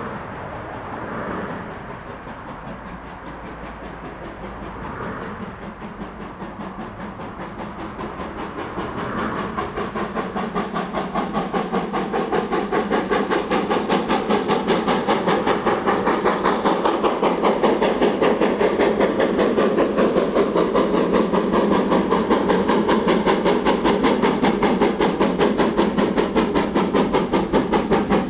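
Steam locomotive working, with a few slow, widely spaced exhaust beats at first. About ten seconds in, the beats come quickly and grow louder, then settle into a fast, steady chuffing rhythm with hiss.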